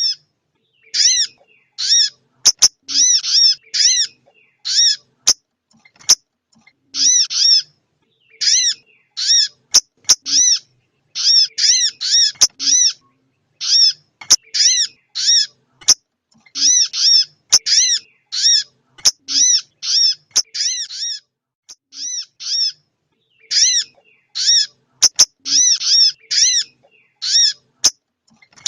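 Female sogok ontong (spiderhunter) calling: short, sharp, high call notes repeated over and over, singly and in quick runs of two to five, with a few faint clicks between them.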